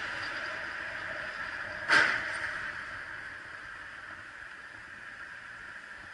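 Steady vehicle running noise with one sharp crash bang about two seconds in, the loudest moment.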